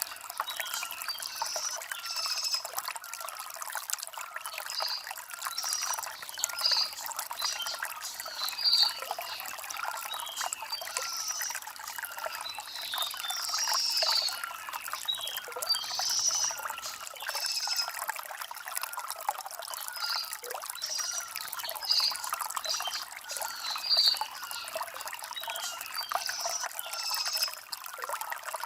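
A shallow stream trickling over river stones, with short bright splashes about once a second.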